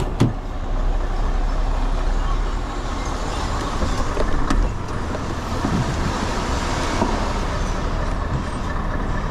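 Tipper lorry's diesel engine running steadily while the truck shunts back in reverse to shake loose a load that is not quite falling out of the raised tipping body. There is a single click about a quarter-second in.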